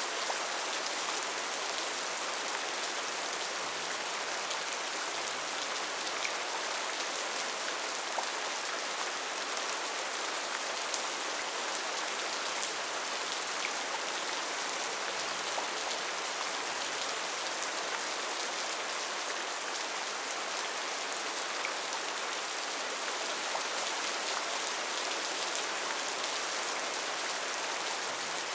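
Steady rain falling on a tin roof: an even hiss with scattered drop ticks.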